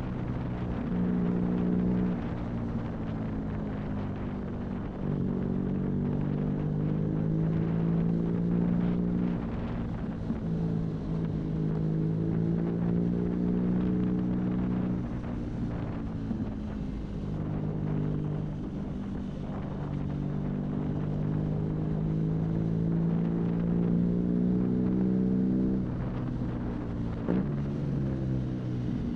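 BMW R nineT's air/oil-cooled boxer twin running through an Arrow aftermarket exhaust under way, heard from the bike. The revs climb slowly and fall back in steps several times, with a brief drop and pick-up near the end, over light wind rush.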